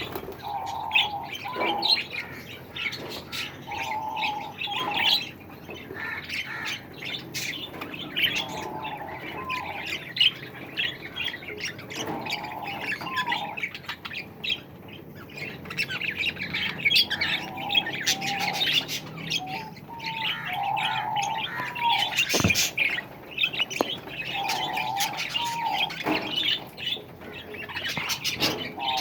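Aviary of small pet birds chattering: a dense stream of quick high chirps, with a lower squawking call repeating every few seconds.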